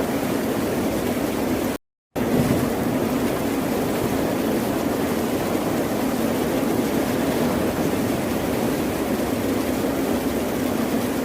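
Steady, dense rushing of water, the deep continuous roar of ocean surf, with no separate waves standing out. It cuts to complete silence for a split second about two seconds in, then resumes as before.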